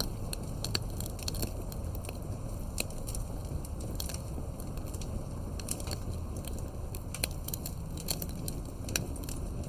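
Wood campfire crackling, with irregular sharp pops and snaps scattered over the low, steady rumble of the burning fire.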